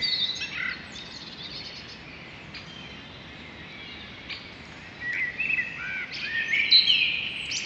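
Birds chirping over a steady hiss of outdoor ambience, with a few short calls at the start and a busier run of chirps from about five seconds in.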